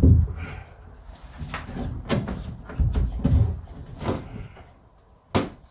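A series of knocks and thuds, starting with a heavy thud and ending with a sharp bang about five seconds in.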